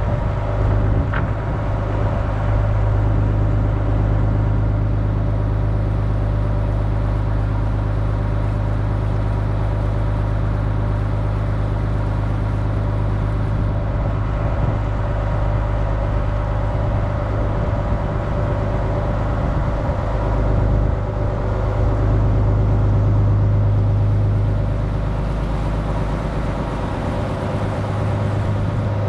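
A Dutch barge's engine running steadily under way, a constant low drone with a slight swell in loudness near the end.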